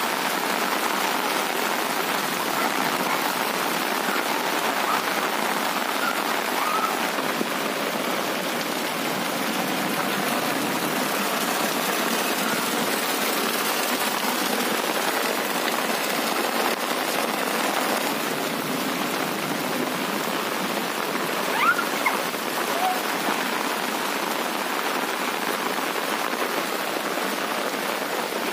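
Heavy rain pouring down onto a flooded street, a steady even hiss of rain and splashing water, with a brief faint voice about three-quarters of the way in.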